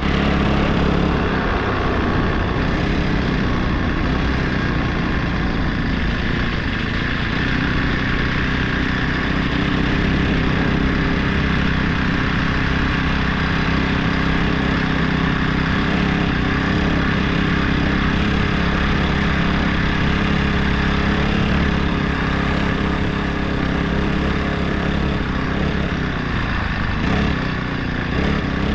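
Small 144F 49cc four-stroke single-cylinder engine of a motorized bicycle running steadily under way, with a brief dip in its note near the end.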